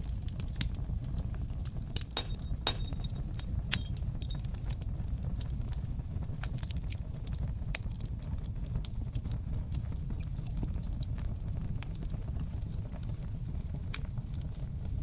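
Fire in a fireplace crackling and popping over a steady low rumble of the flames, with a burst of sharper pops a couple of seconds in, the loudest about four seconds in.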